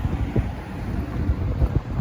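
Wind buffeting the microphone in low, uneven gusts, over city street traffic noise.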